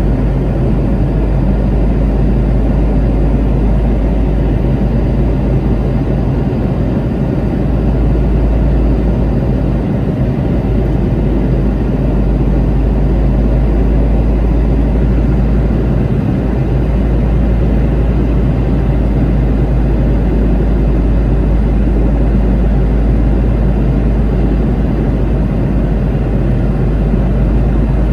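Steady cabin noise inside a Boeing 717-2BD in flight on approach: the drone of its two rear-mounted Rolls-Royce BR715 turbofans and the rush of air over the fuselage, with a strong low rumble.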